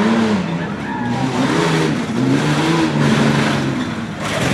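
Off-road race truck's engine revving hard, its pitch rising and falling several times as the throttle is worked.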